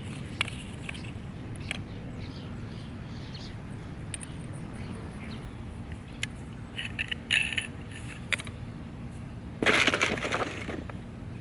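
Clinks and rattles of small metal parts being handled, with a louder clatter lasting about a second near the end, over a steady low rumble.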